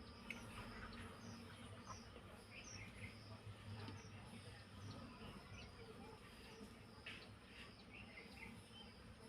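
Faint outdoor ambience: scattered short chirps of small birds over a steady, thin, high insect drone.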